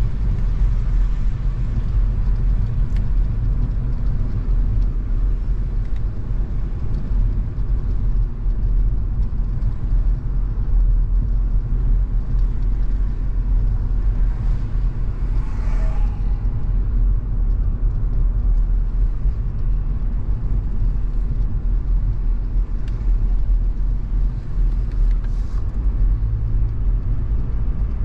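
Car driving along a road: a steady low rumble of engine and tyre noise, with a brief higher whoosh just past halfway.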